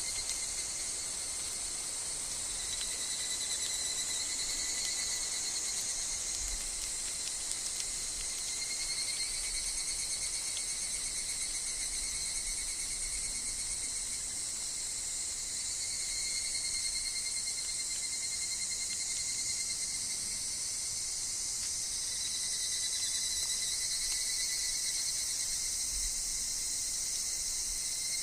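Steady chorus of insects calling, high and continuous, with a thin unbroken tone that wavers slightly in strength.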